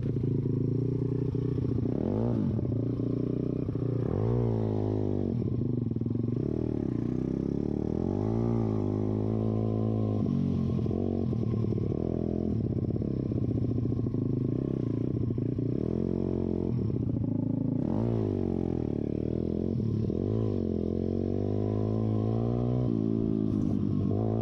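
YCF pit bike's single-cylinder engine running on a trail ride, its pitch rising and falling again and again as the throttle is opened and closed. The recording is garbled, so the engine sounds distorted.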